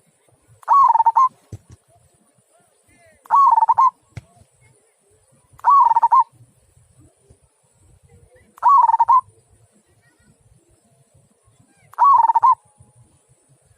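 Zebra dove (local perkutut) cooing: five short cooing phrases, each about half a second long, spaced two to three seconds apart.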